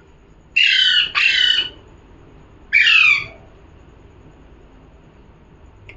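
Pet parrot giving three harsh, loud squawks: two in quick succession about half a second in, and a third about a second later.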